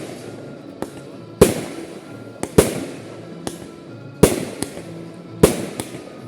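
Aerial fireworks shells bursting in a display: about nine sharp bangs, the loudest coming roughly once a second, each trailing off with echo.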